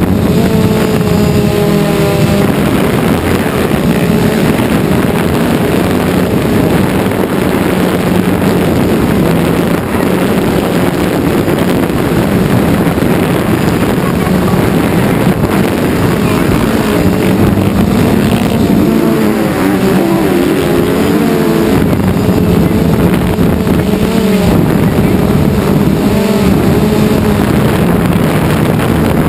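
Quadcopter drone motors and propellers buzzing steadily and loudly. Motocross bike engines rev up and down underneath near the start and again about two-thirds of the way through.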